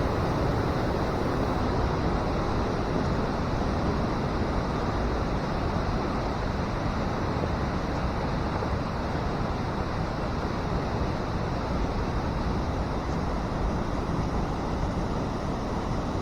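Small stream flowing under a footbridge: a steady, gentle rush of water.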